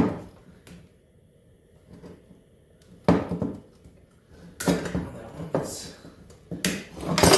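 Hand tools and metal parts knocking and clattering: a sharp click at the start, then several irregular bursts of rattling and knocking in the second half.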